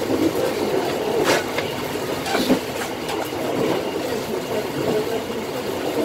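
Train running at speed, heard from the driver's cab: a steady rolling rumble with a few sharp clicks from the wheels and track, the first about a second in.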